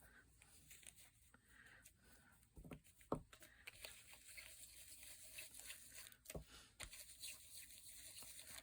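Near silence with faint rustling of paper and a few soft taps, about four in all, from paper crafting at a table.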